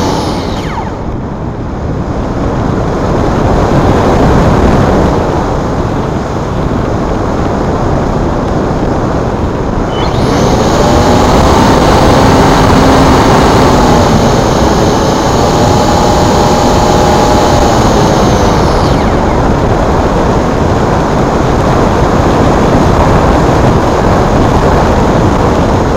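Electric motor and propeller of a Multiplex Blizzard RC glider flying passes, a whine that slides down in pitch as it goes by. It is loudest from about ten seconds in until about nineteen seconds, and comes back near the end. A steady rushing noise runs underneath.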